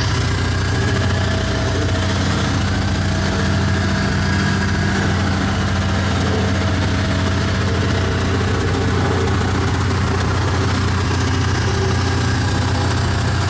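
Sany motor grader's diesel engine idling steadily, a deep even hum with no change in pitch.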